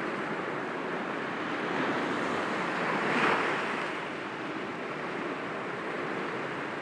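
Sea waves breaking gently against rocks, a steady wash of surf with one wave swelling louder about three seconds in.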